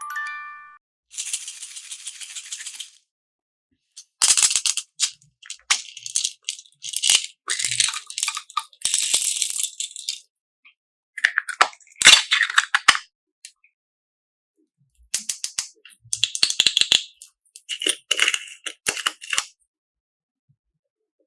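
Wet, crackly squishing and popping of slime being squeezed and worked, in bursts a second or two long with silent gaps between them. A short pitched chime sounds right at the start.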